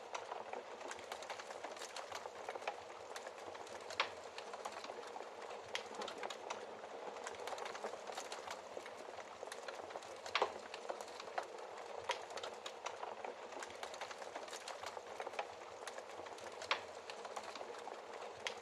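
Wood fire burning in a fireplace: a steady hiss and flutter of flames with frequent crackles and sharp pops, the louder pops about 4, 10, 12 and 17 seconds in.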